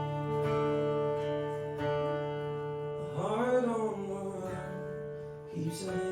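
Acoustic guitar played live, notes ringing on, with a singer's voice coming in for a sung phrase about three seconds in and again near the end.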